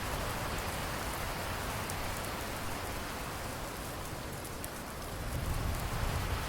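Steady rain falling and pattering on a surface, with a low rumble of thunder starting to build near the end.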